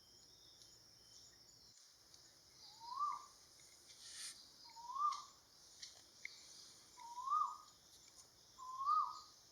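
Hooded pitta calling: four short whistled notes, each rising then falling, about two seconds apart. A steady high insect hiss runs underneath.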